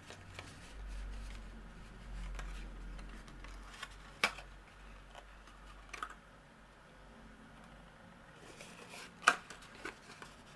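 Cardstock being handled and pressed together as glued box tabs are stuck down, with a low rumble of handling against the work surface early on and a few sharp taps, the loudest near the end.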